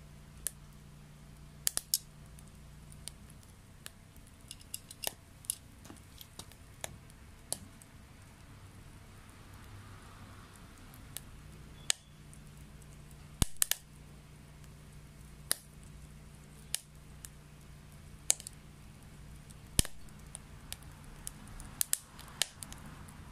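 Wood fire crackling in a homemade secondary-combustion stove burning wet wood: sharp, irregular pops and snaps, a few louder than the rest, over a faint steady low hum.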